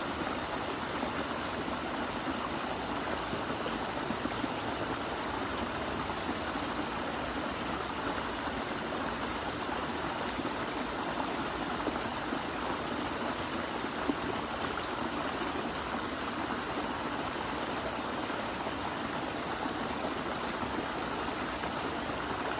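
A steady flow of running water, the even rush of a stream or small waterfall.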